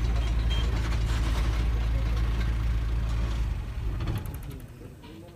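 Safari jeep engine running with a steady low rumble that fades out about four seconds in.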